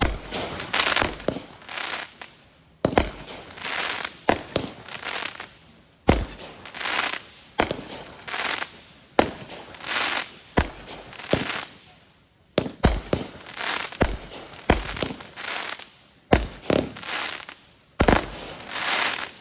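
Consumer aerial fireworks going off in a steady series of shots, about one a second. Each is a sharp bang followed by a short noisy crackling trail.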